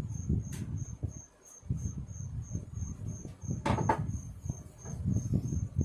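Cricket chirping steadily in a high, even pulse of about four chirps a second, over low knocks and handling sounds, with a sharper clatter a little before the four-second mark.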